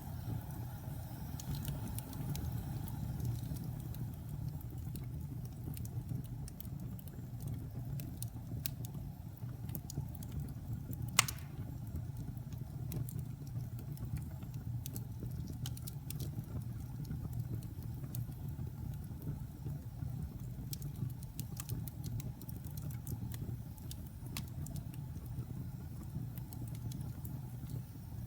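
Wood fire in a fireplace burning with a low steady rumble and scattered light crackles, and one sharp pop about eleven seconds in.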